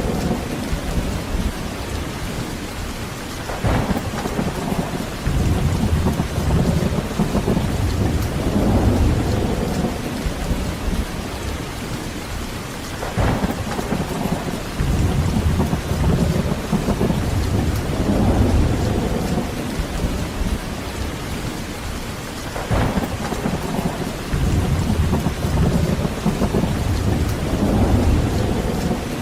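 Heavy rain falling steadily, with rolling thunder that swells into a low rumble every nine or ten seconds; a sharp crack comes just before each rumble, three times in all.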